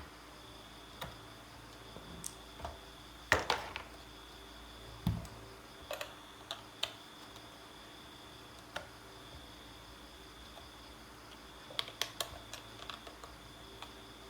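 Scattered sharp clicks and light knocks of small parts and tools being handled, loudest in a cluster about three seconds in and another burst around twelve seconds in.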